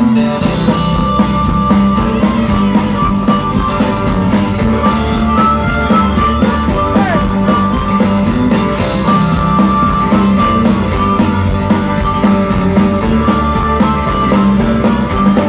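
Live rock band playing an instrumental break between verses, with held notes over a steady full band.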